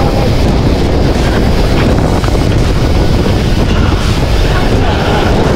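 Strong wind buffeting the microphone in a steady low rumble, with the sea's surf washing beneath it.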